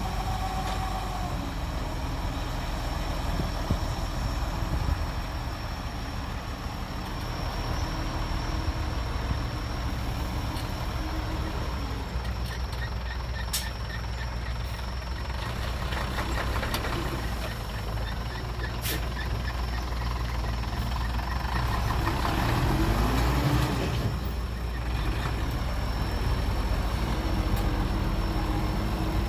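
Heavy diesel earthmoving machinery running steadily, with the engine revving up about three quarters of the way through and a couple of sharp clicks.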